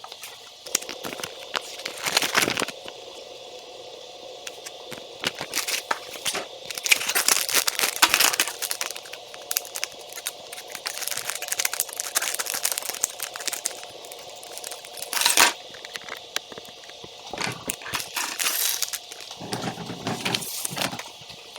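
Plastic toy parts being handled and fitted together: irregular clicks, clacks and crinkling rustles, in denser clusters now and then over a faint steady hum.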